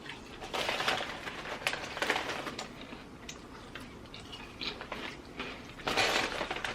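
Potato chips crunching as they are chewed, in irregular bursts with a louder crunch near the end.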